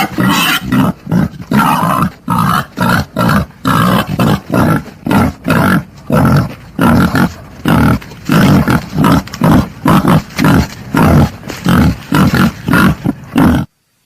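Wild boar grunting and squealing in a rapid, uneven string of short calls, two or three a second, that cuts off suddenly near the end.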